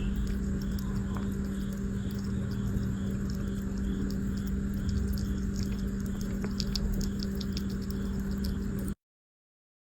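Small pet rodent scratching and clicking, faint scattered ticks over a steady low hum. The sound cuts off abruptly about nine seconds in.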